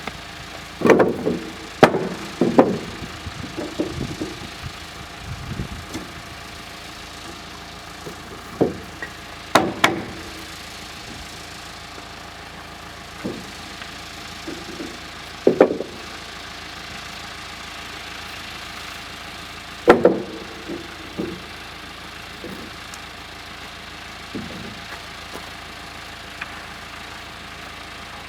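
An engine idling steadily, with loud, irregular heavy clunks and knocks every few seconds, several close together in the first three seconds and single ones around ten, sixteen and twenty seconds in.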